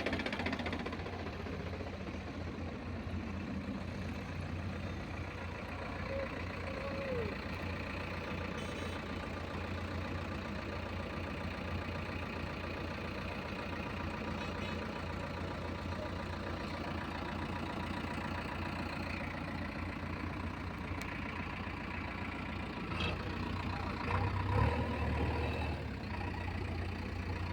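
Diesel engine of a backhoe loader or tractor running steadily at low revs, with a brief louder swell near the end.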